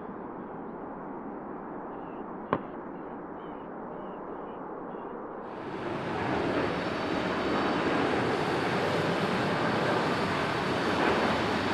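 Steady distant aircraft noise with faint chirps and a single sharp crack about two and a half seconds in; about five and a half seconds in, the sound switches abruptly to a louder, steady jet engine noise from a nearby airliner.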